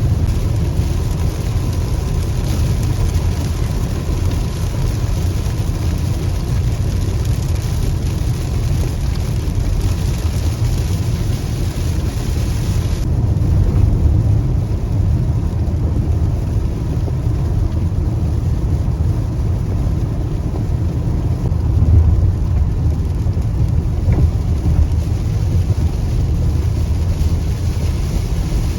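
A car driving through heavy rain: a steady low road and engine rumble under the hiss of rain. The higher hiss drops off suddenly about thirteen seconds in.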